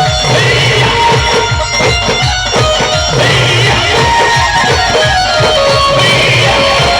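Loud amplified live band music: a plucked, electric-guitar-like melody over a steady drum beat, played through the band's sound system.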